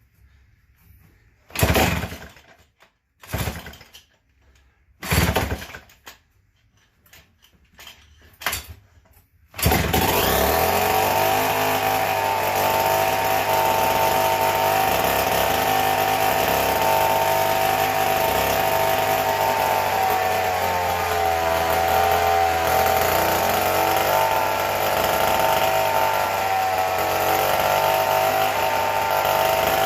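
Vintage McCulloch Model 73 gear-drive two-stroke chainsaw being pulled over several times, then catching about ten seconds in and running loud and steady at a high speed with a slightly wavering pitch. The engine runs real fast, a high idle that the owner suspects comes from an air leak, such as a failed intake gasket or crank seal.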